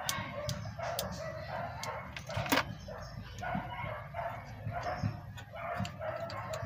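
An animal calling over and over in short repeated calls, with sharp clicks and taps among them; the loudest click comes about two and a half seconds in.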